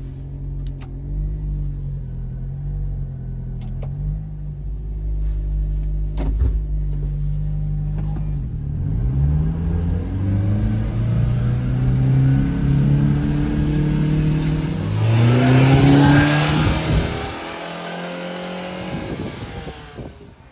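1993 Subaru Sambar kei truck's small 660 cc four-cylinder engine, running steadily at first, then revving up in several rising sweeps that drop back between them, as when pulling away and shifting up through the gears, before settling lower near the end.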